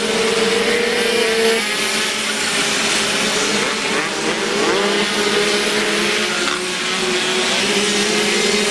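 Several Derbi Variant 49 cc two-stroke moped engines racing together, their pitch rising and falling again and again as riders open and close the throttle.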